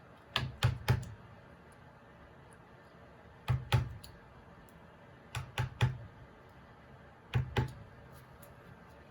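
Light mallet taps on a woodcarving chisel or gouge, struck in quick groups of two or three, four groups in all, with short pauses between.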